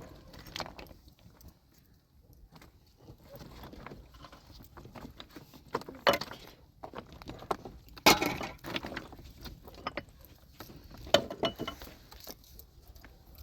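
Irregular knocks and clatters of hard objects being handled, with sharper strikes about six, eight and eleven seconds in.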